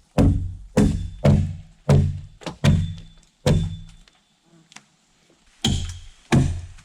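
Axe chopping into a wooden log: a run of heavy blows about half a second apart, each a deep thunk, with a pause of about two seconds midway before the chopping resumes.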